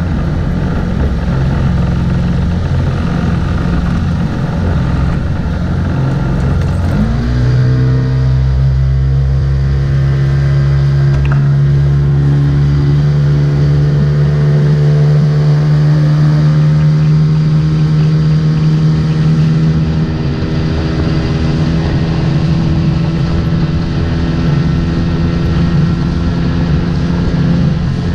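Motorboat engine running, its pitch rising as it is throttled up about seven seconds in, then running steadily at speed.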